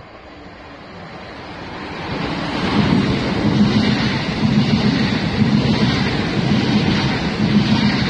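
Electric multiple-unit passenger train running through the station along the platform: a rumble of wheels on rail and rushing air that swells over the first three seconds and then holds loud and steady as the carriages go by.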